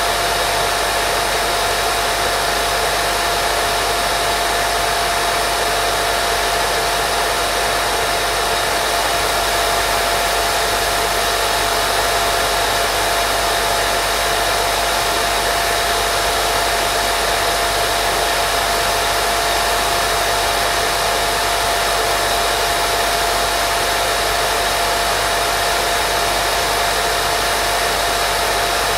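Steady baby-sleep white noise: an even, unbroken hiss with a steady hum-like tone running through it and a low rumble underneath.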